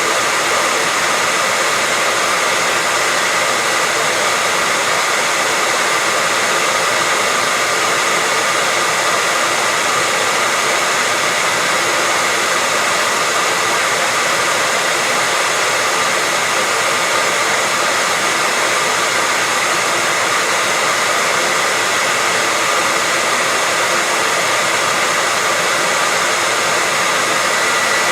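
Hair dryer running steadily: a constant rush of blown air with a steady whine from its motor and fan.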